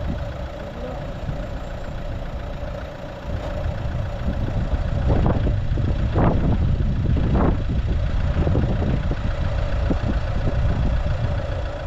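Car engine running steadily at low speed, louder from about four seconds in, with a few short bumps in the middle.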